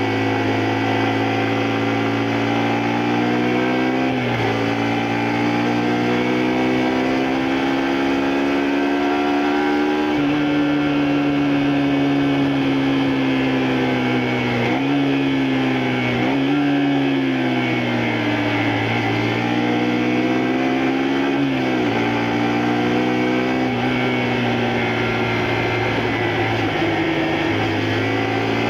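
Honda Varadero 125's 125cc V-twin engine under way, pulling up through the revs and dropping sharply at each gear change about four times, with a spell of easing off and a steady cruise in between.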